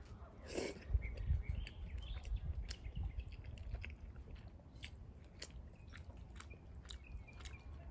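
Close-miked chewing of sauced pasta noodles: wet mouth clicks and smacks throughout, with a brief louder slurp about half a second in as a forkful goes into the mouth.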